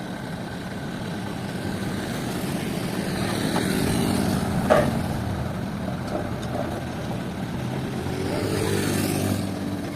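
Heavy sawmill machinery running steadily with an engine hum that swells near the end. A single sharp knock sounds about halfway through.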